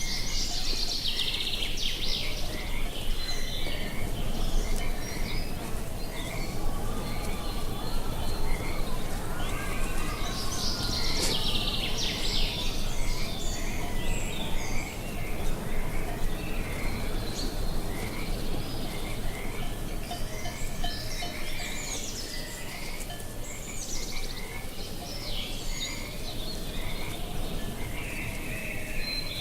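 Many small birds chirping and singing, busiest about a second in and again about ten seconds in, over a steady low outdoor rumble of wind.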